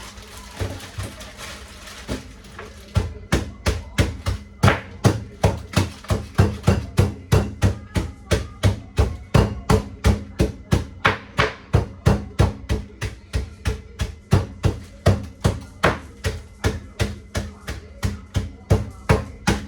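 Fresh ginger root being pounded to smash it: a steady run of hard knocks, about two to three a second, softer for the first few seconds and then hard and even.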